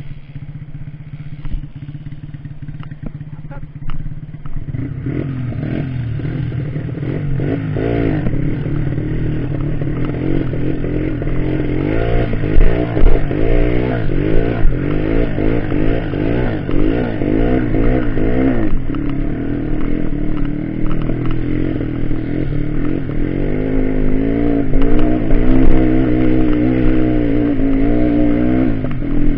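Off-road trail motorcycle engines running and revving, the pitch rising and falling again and again. The sound grows louder about five seconds in.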